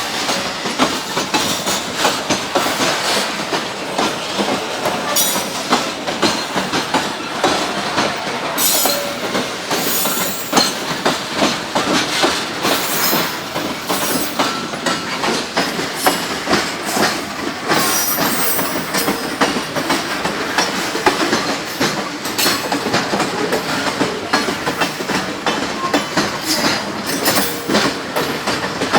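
Freight wagons rolling past at close range: a steady clatter of wheels over the rail joints, with brief faint wheel squeals here and there.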